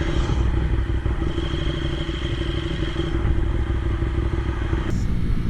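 Motorcycle engine running steadily while riding. It changes abruptly near the end to a different motorcycle's engine.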